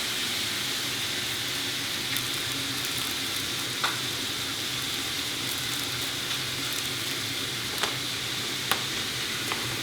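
Food sizzling steadily in hot oil in a frying pan, with a few brief clicks.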